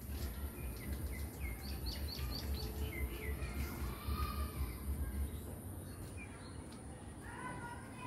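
A bird chirping in a quick run of short, sharp notes during the first three seconds, then sparser calls. A thin steady high tone and a low rumble run underneath.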